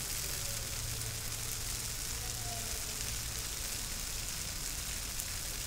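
Tofu scramble sizzling in a stainless steel wok as it is stirred with wooden chopsticks: a steady frying hiss.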